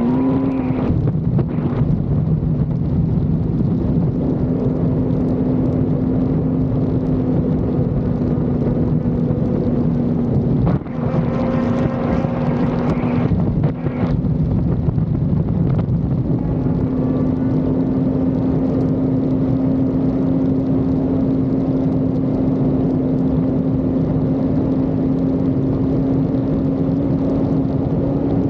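Yamaha R1's inline-four engine running steadily at speed, its note creeping slowly up in pitch, with wind rushing over the microphone. The note breaks off briefly about eleven seconds in and again near fourteen seconds, as in a quick throttle lift or gear change.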